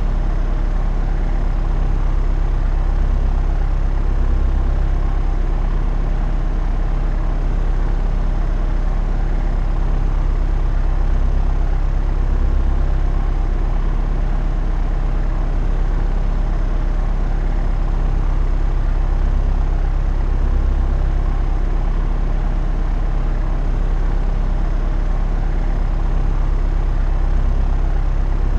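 Propeller aircraft in cruise flight: a steady engine-and-propeller drone with a strong low hum and an even rush of noise, the level swelling and easing slightly every few seconds.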